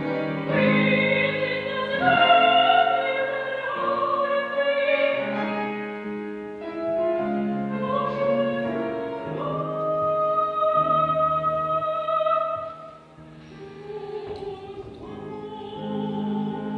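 Classical art song: a trained singer in operatic style with piano accompaniment, sustaining a long note for about three seconds before the music briefly quietens and picks up again.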